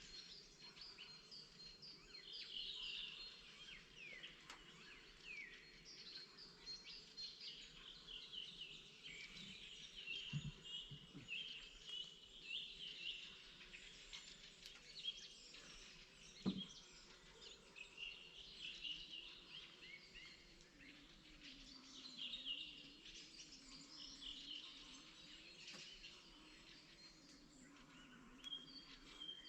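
Springtime chorus of several small songbirds chirping and trilling continuously, with a faint low drone underneath. A single sharp knock sounds about halfway through.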